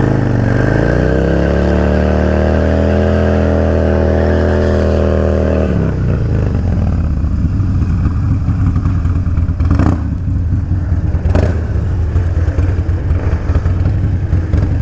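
Harley-Davidson Low Rider's V-twin revved up and held at high revs for about five seconds during a rolling burnout, with the front brake on and the clutch slipped to spin the rear tyre. About six seconds in, the throttle comes off and the engine drops to a lower, uneven rumble, with two sharp knocks later on.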